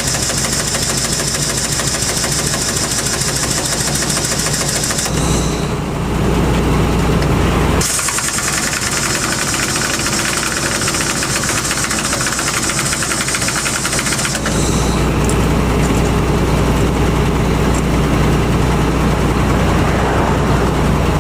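An engine running steadily. Its sound changes abruptly three times, switching between a hissy high-pitched mix and a heavier, deeper one.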